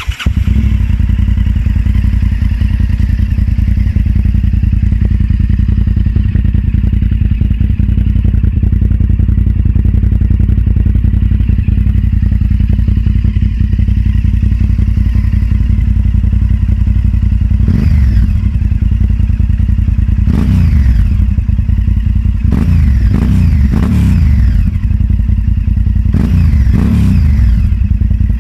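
Honda Varadero V-twin running through aftermarket Mivv titanium exhausts: the engine comes up loud and idles steadily, then is given a series of quick throttle blips from about 18 seconds in, each rev rising and falling back to idle.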